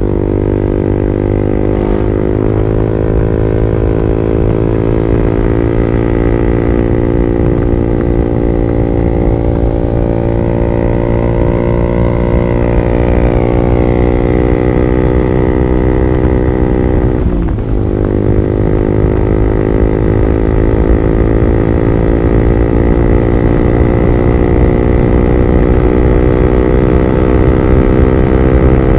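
Honda CB150R's single-cylinder engine heard through an R9 Alpha Series aftermarket exhaust while riding, its revs climbing slowly and steadily. A little past halfway the revs drop briefly, as at a gear change, then climb again.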